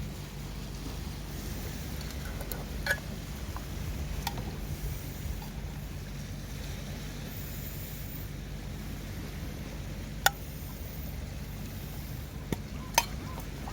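Steady low rumble of wind on the microphone outdoors, with a few sharp clicks: one about three seconds in, one near ten seconds and two near the end.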